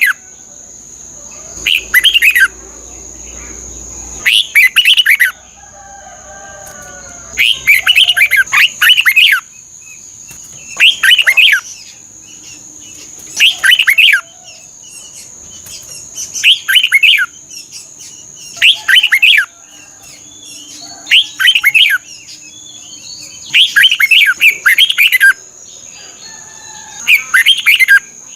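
Red-whiskered bulbul singing: short, loud phrases of quick, warbling whistles, repeated about every two to three seconds, eleven or so in all. A steady high-pitched whine runs underneath.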